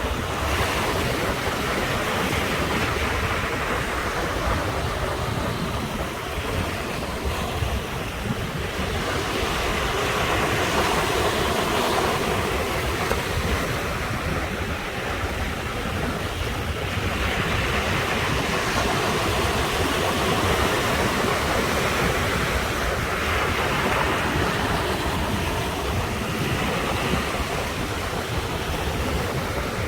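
Sea waves breaking and washing on the shore in a continuous wash that swells into several louder surges, roughly every six seconds, with a steady low wind rumble on the microphone underneath.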